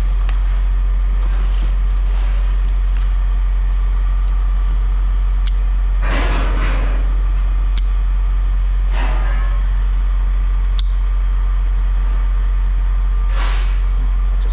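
A steady low electrical hum throughout, with three short rasping, scraping sounds and a few sharp clicks as scrap wire is handled and cleaned.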